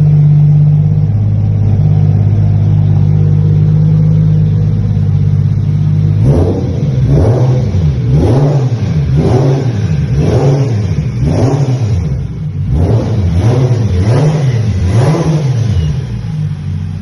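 Toyota Mark II's 1JZ straight-six, single-turbocharged with a Garrett GT3076R and a new exhaust system, idling steadily. From about six seconds in it is revved in repeated blips, roughly one a second, each rising and falling in pitch.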